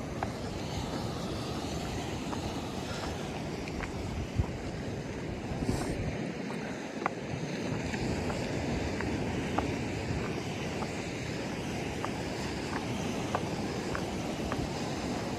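Steady surf and ocean wash along a coral shoreline with wind buffeting the microphone, and scattered small sharp clicks throughout.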